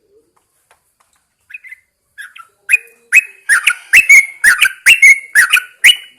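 Yellow-vented bulbul singing: a few soft scattered notes, then, about halfway through, a quick run of loud, sharp notes, about three a second.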